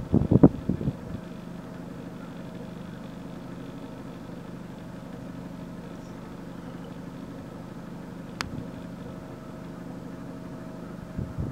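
A vehicle engine idling steadily, with a few short loud bumps in the first second and a single sharp click about eight seconds in.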